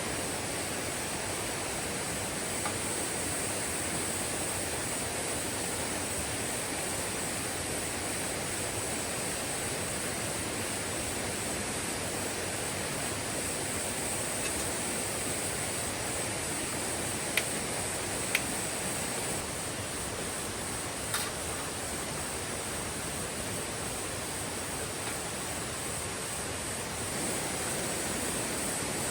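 Mountain stream running steadily, with a constant high-pitched hum of grass insects over it. Three short sharp clicks a little past halfway.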